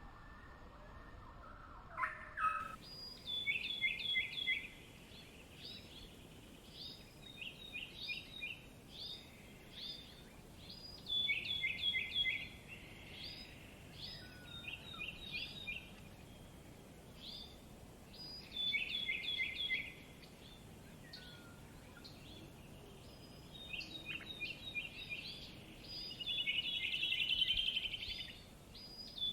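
A songbird singing short phrases of quick, stuttering descending notes, repeated in bursts every second or two, with a denser trill near the end, over a steady low background hiss. About two seconds in, a fainter gliding sound cuts off and the birdsong begins.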